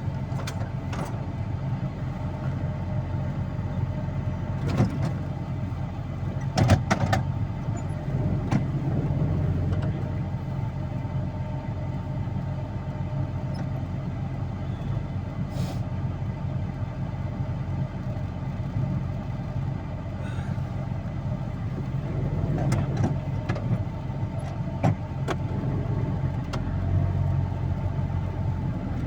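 Vehicle engine running steadily, with a few short knocks and clunks here and there.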